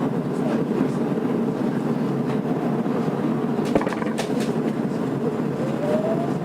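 Tokyo Metro 02 series subway car with IGBT-VVVF control, heard from inside the car while running: a steady rumble of wheels and running gear. There is a sharp click about four seconds in, and the motor whine rises near the end.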